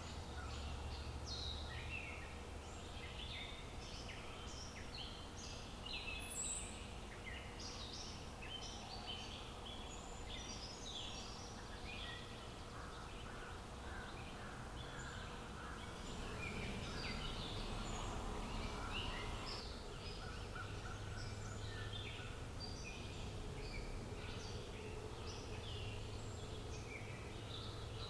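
Birdsong chorus: many birds chirping and singing in quick short notes, overlapping throughout, over a steady outdoor background hiss.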